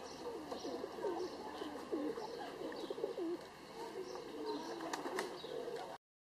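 Pigeons cooing, many low rolling coos overlapping, with short higher bird calls above them. The sound stops abruptly near the end.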